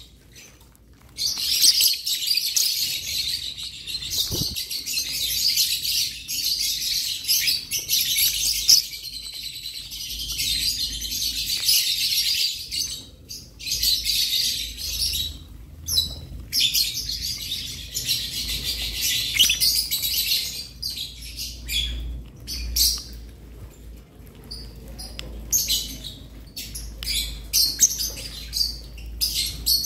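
Many lovebirds chattering together: overlapping high-pitched chirps and squeaks, starting about a second in and keeping on with only brief lulls.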